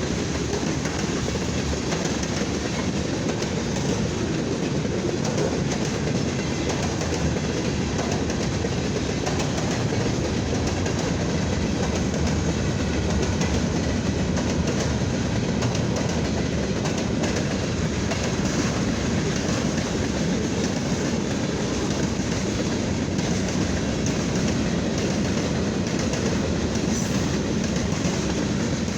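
Freight cars of a mixed freight train rolling past at steady speed: a continuous rumble of steel wheels on the rails with clickety-clack over the rail joints.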